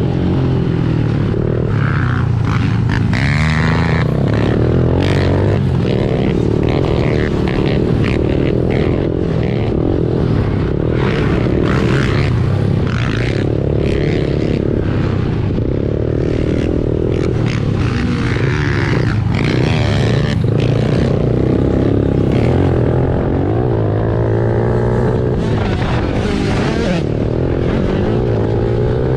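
Honda CRF110 pit bike's small four-stroke single-cylinder engine running hard around a dirt track, its pitch rising and falling again and again as the throttle opens and closes.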